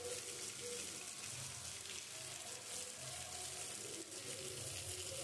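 Rain falling steadily on a paved street, a fine even hiss with water running off the wet surface.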